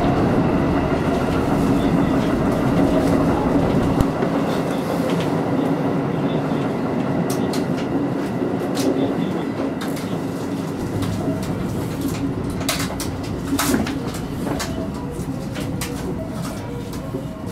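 JR electric train running, heard from inside the driver's cab: a steady hum of motors and running gear. From about halfway through, the wheels click sharply over rail joints and points.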